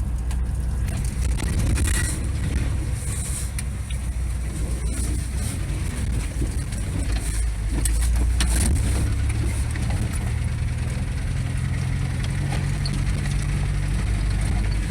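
GAZelle van driving slowly over a rough dirt track: a steady low engine and road rumble, with a few brief knocks and rattles as it goes over bumps.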